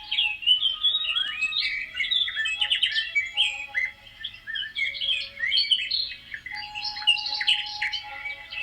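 Many small birds chirping and twittering at once in a dense, continuous chorus of quick, overlapping high calls.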